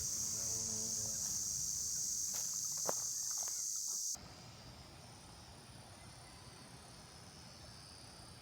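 A steady, high-pitched chorus of insects. About four seconds in it drops suddenly to a fainter, thinner chorus, with a few faint clicks just before the drop.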